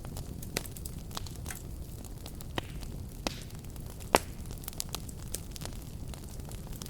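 Fire crackling with scattered sharp pops over a steady low rumble of flames, with one loud pop about four seconds in.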